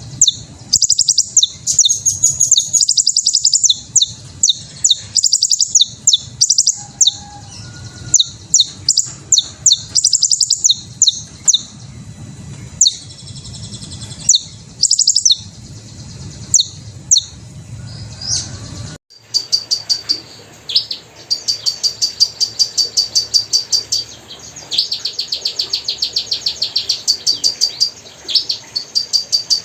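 Hummingbird calls: many short, high-pitched chips and twitters in quick runs. About nineteen seconds in, the background changes abruptly and the calls turn into fast, evenly repeated trains of chips.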